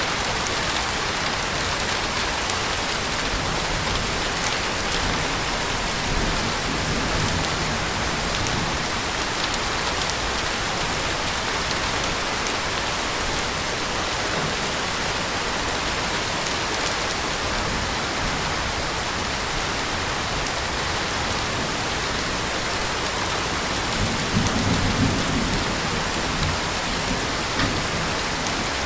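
Heavy rain falling steadily in a dense, even hiss. Brief low rumbles come about seven seconds in and again, a little louder, near the end.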